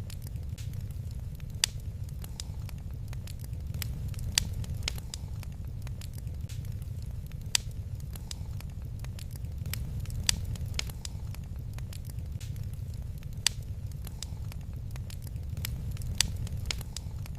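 Wood fire crackling in a fireplace: irregular sharp pops and snaps, several a second, with a louder pop every few seconds, over a steady low rumble.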